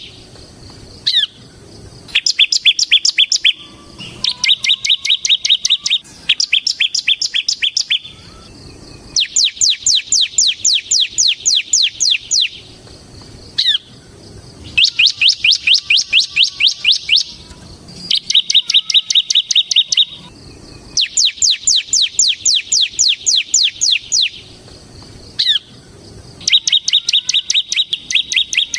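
Bar-winged prinia (ciblek) singing its rapid rattling 'ngebren' song. It comes in repeated bursts of 2 to 3 seconds of fast, evenly spaced notes, about eight a second, with short pauses and an occasional single call between them. Some bursts are sharp, sweeping notes and others are buzzier, steadier rattles.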